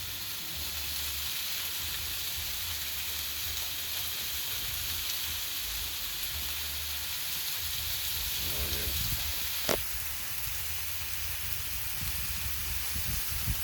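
Chicken and pork frying on a Blackstone flat-top griddle, a steady sizzling hiss, with one sharp click about ten seconds in.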